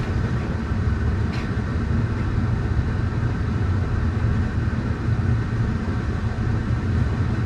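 Steady low rumble of running machinery or a fan, with a single light click about a second and a half in.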